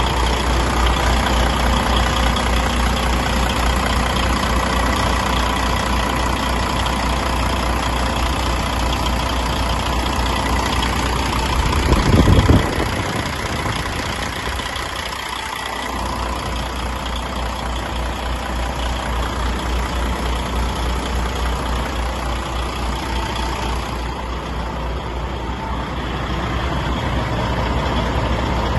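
DAF truck diesel engine idling steadily with an even low pulse, which the seller describes as in perfect working order. About twelve seconds in comes a brief loud burst, and the low rumble dips for a few seconds afterwards.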